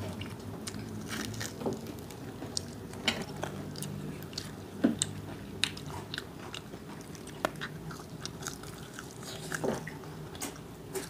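Fried chicken being bitten and chewed up close, with irregular crunches and small wet mouth clicks.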